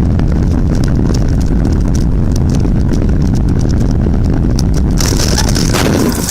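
Car on the move: a loud, steady low rumble of engine and road noise, with a brighter hiss joining about five seconds in.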